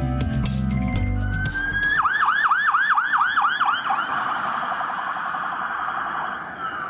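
Music gives way to an electronic siren. The siren rises, then wails rapidly up and down about four times a second, and trails off into a hiss with a falling tone near the end.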